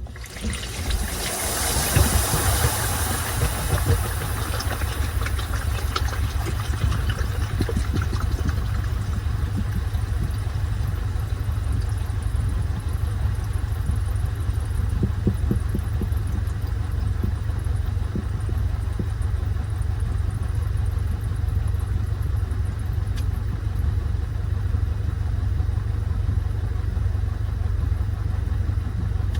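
Washing machine running with a steady low hum. It starts suddenly with a hiss that dies away over the first few seconds.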